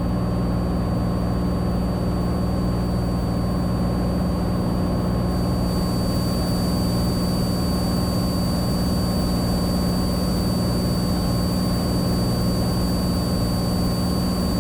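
Cessna 182T's six-cylinder Lycoming IO-540 engine and propeller droning steadily in flight, one unchanging low hum.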